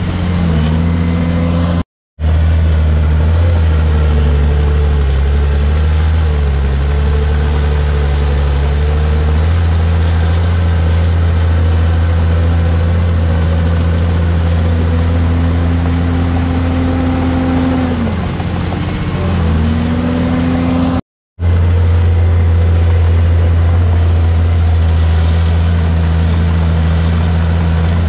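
Heavy diesel engine of a Komatsu D51PX crawler bulldozer running hard while it pushes soil. Its pitch dips and rises again a few times. The sound cuts out for an instant twice, about two seconds in and about twenty-one seconds in.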